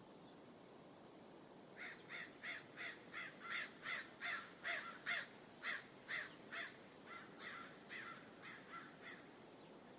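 A bird calling in a long series of about twenty short calls, roughly three a second, that grow louder and then fade away.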